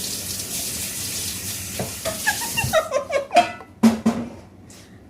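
Espresso machine's steam wand hissing steadily as it froths milk, cutting off about halfway through. A few sharp clinks of cups or crockery follow.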